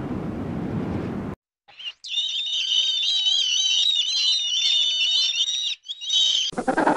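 A flock of black-headed gulls calling, a dense chatter of high, wavering calls that lasts about five seconds. Before it there is a rushing wind-like noise, which cuts off about a second and a half in. A louder, lower animal call starts just before the end.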